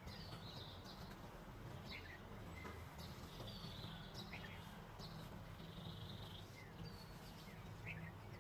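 Birds chirping and calling in short, scattered high notes, some rising or falling, over a faint steady low hum.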